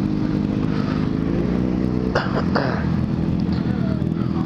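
Motorcycle engine running steadily, with a few sharp knocks a little past two seconds in.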